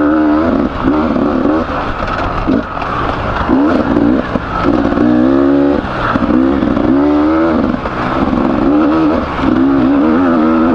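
Beta 300RR two-stroke enduro motorcycle engine under riding load, its note rising and falling over and over as the throttle is worked on and off.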